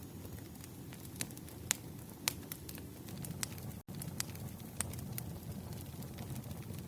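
Wood fire crackling: irregular sharp pops and snaps over a low, soft rumble. The sound cuts out for an instant about four seconds in.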